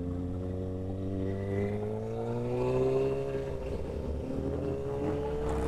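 Motorcycle engine running on the road, its pitch rising gradually for about three seconds and then easing back down.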